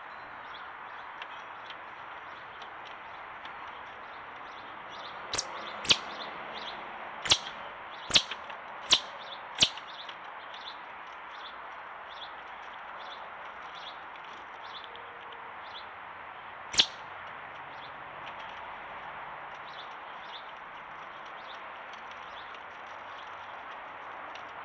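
Small birds chirping: a steady scatter of faint short chirps over a background hiss, with a quick run of six loud, sharp, downward-sweeping chirps about a quarter of the way in and one more a little past halfway.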